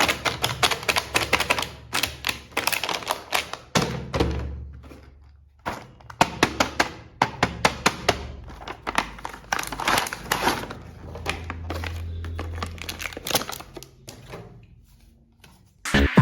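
Rapid, irregular clicking and tapping, like hard plastic being handled, with a few pauses.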